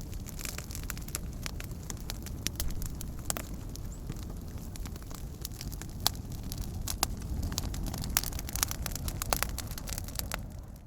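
A fire crackling, with sharp irregular pops over a steady low rumble; it fades out near the end.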